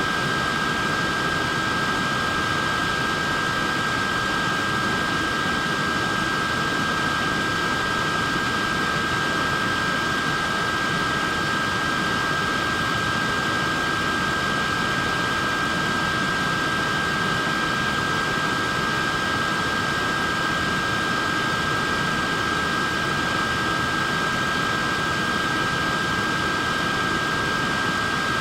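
Wearable neck fan running steadily: an even rush of air with a constant high motor whine.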